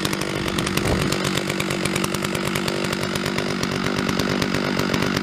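Stihl 066 two-stroke chainsaw idling steadily while it warms up, not cutting.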